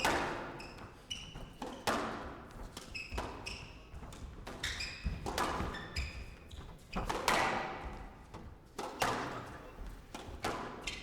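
A squash rally in a hall: the ball cracking off rackets and walls roughly once a second, each hit echoing, with short high squeaks of shoes on the court floor between the hits.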